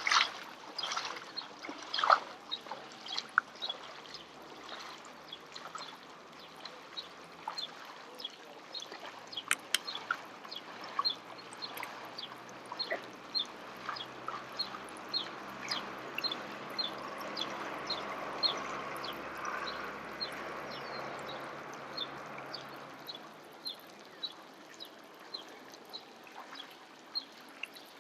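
A bird calling short, sharp, high notes over and over, about one or two a second. A soft rushing noise swells in the middle and fades.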